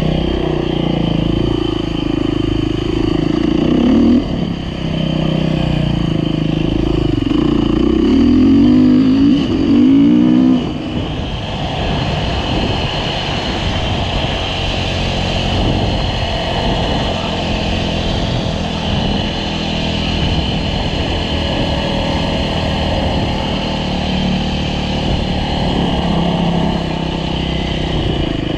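Dirt bike engine running on a trail ride, revving up and down with repeated rising and falling sweeps in pitch, loudest about eight to ten seconds in. About eleven seconds in it drops to a steadier, slightly quieter run that carries on.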